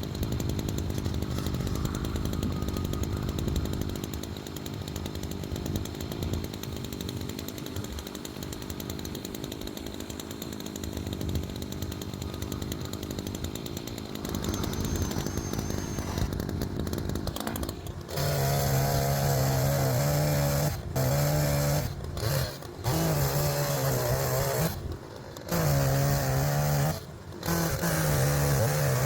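Chainsaw bucking logs. It runs low and rough for most of the first two-thirds, then revs to full throttle, cutting in steady loud bursts that drop out briefly between them.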